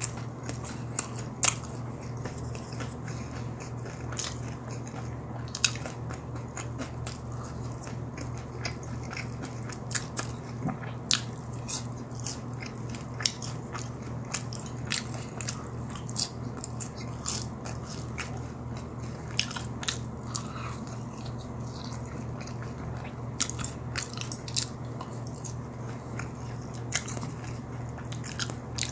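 Close-up chewing and biting of crispy fried chicken and fries, with frequent sharp, irregular crunches over a steady low hum.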